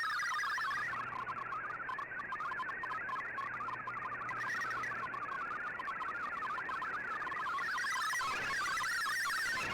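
Digital-mode data signal from a shortwave broadcast heard through a communications receiver: a fast warbling stream of hopping tones, typical of MFSK text transmission, over a background of radio hiss.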